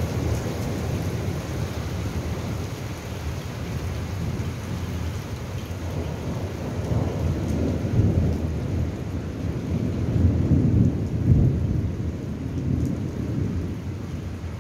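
Rain falling steadily, with deep rumbles swelling and fading, loudest about eight seconds in and again around ten to eleven seconds.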